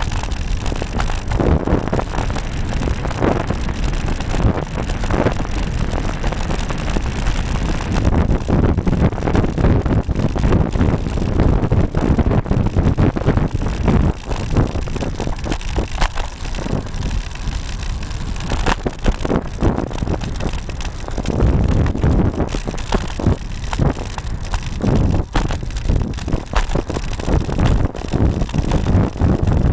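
Wind rumbling over the microphone of a bike-mounted camera while riding a road bike, with frequent short knocks and rattles as the mount is jolted by the road.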